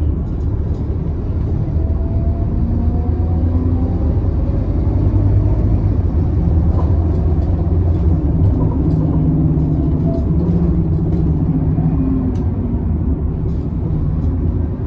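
Scania K280UB city bus under way, heard from inside the cabin: a steady low drone from the engine and drivetrain with slowly rising tones as it pulls, and scattered light rattles from the body.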